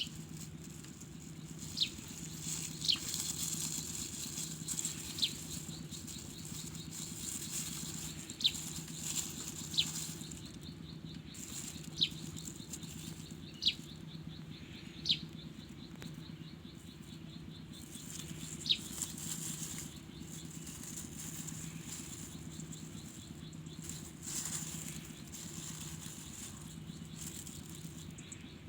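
Outdoor rural ambience: short, sharp downward-sweeping bird calls, about ten of them, scattered irregularly and mostly in the first two-thirds, over a steady low hum and a high hiss.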